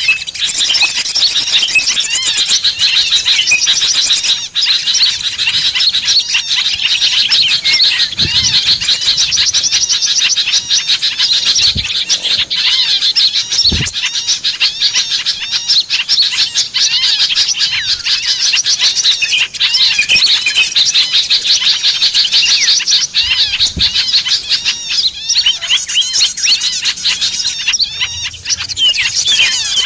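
Many small songbirds chirping and twittering at once in a dense, unbroken high-pitched chatter. It is a lure-call recording, played to draw small wild birds in.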